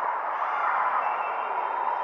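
Steady din of many overlapping voices in a gym crowd, with no single voice standing out.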